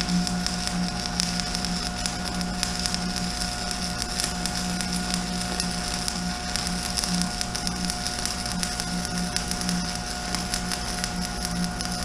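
Stick welding with 7018 rod on a Miller Thunderbolt XL welder: the arc crackles and sizzles steadily over the machine's steady hum.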